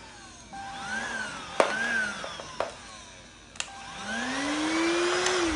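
Deik cordless stick vacuum's motor switched on and off with clicks of its button: it whines up and winds straight back down twice, then near the end runs up for over a second before starting to wind down again.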